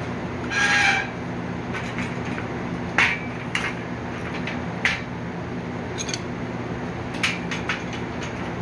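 Irregular metallic clanks and clinks of steel bed-frame parts being handled and knocked while a bent leg is straightened, the first ringing briefly. A steady low hum runs underneath.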